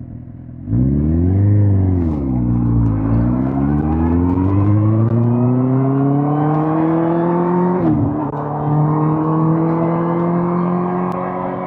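2005 Suzuki GSX-R1000 K5's inline-four engine accelerating under throttle. The throttle opens sharply about a second in, and the revs rise, dip, then climb steadily for several seconds. Near the end the revs drop quickly at an upshift, then climb again.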